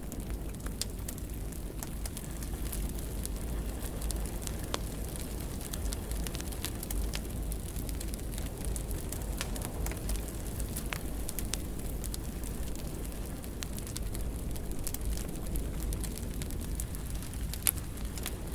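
Wood fire in a fireplace burning with a steady low rumble and frequent scattered crackles and pops, one louder pop near the end.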